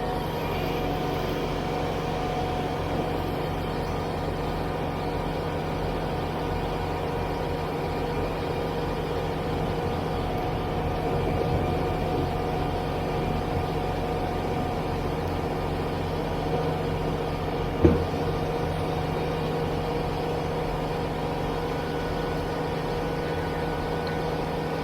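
Kubota BX23S compact tractor's three-cylinder diesel engine running steadily, heard from inside the tractor's cab while it clears snow. One short sharp knock about two-thirds of the way through.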